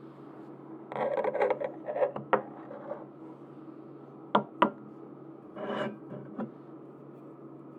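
Merchandise packaging being handled and opened by hand: short bursts of rustling and a few sharp taps or clicks, over a steady low hum.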